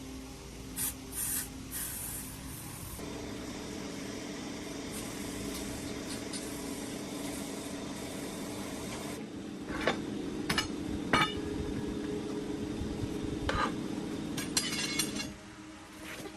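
A machine hums steadily in a workshop while metal parts clink a few times, with short hisses near the start and near the end.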